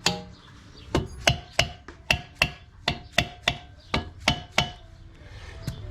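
Light hammer taps on metal engine parts, about a dozen in a quick, even series at roughly three a second, each with a short metallic ring. The series starts about a second in and stops near the end.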